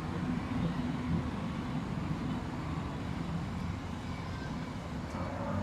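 City street traffic: a steady low rumble of vehicles passing.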